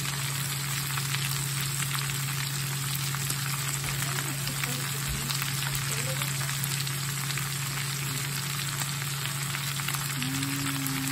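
Shredded cabbage frying in a hot cast iron skillet: a steady sizzle with fine crackles, over a steady low hum.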